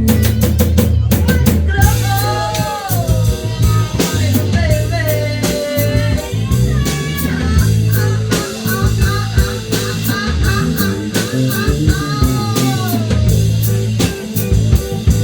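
A rock band jamming with a drum kit, low bass notes and guitar. A lead line bends and slides in pitch over the groove.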